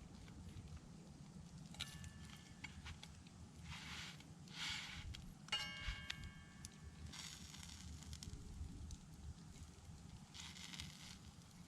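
Faint campfire crackling with scattered pops, and a couple of brief ringing clinks of metal utensils, the clearer one about halfway through.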